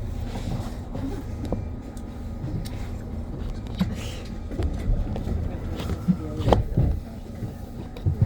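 Cabin sound of a BYD BD11 battery-electric bus: a steady low rumble with scattered rattles and clicks, and a sharper knock about six and a half seconds in.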